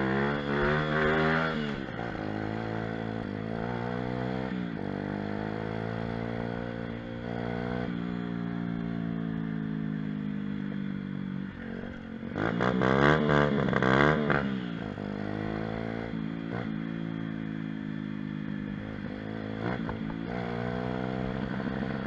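Pit bike engine running while riding, its pitch rising and falling through revs and gear changes. About twelve seconds in it revs hard for two seconds with the pitch jumping rapidly up and down, the engine cutting at high revs.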